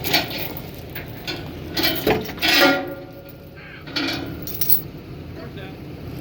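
Metal clanking and scraping: a few sharp knocks, the loudest around two and a half seconds in, briefly ringing, over a steady low rumble.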